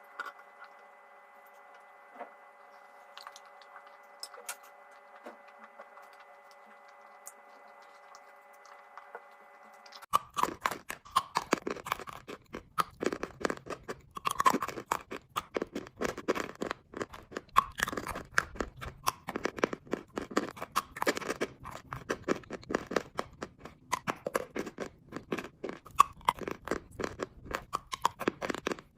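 A faint steady hum with a few soft clicks for about ten seconds, then close-up crunching and chewing of chalk: dense, irregular crackles of chalk breaking between the teeth.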